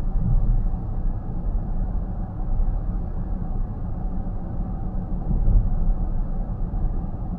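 Steady low road rumble and tyre noise heard inside the cabin of a car cruising at road speed.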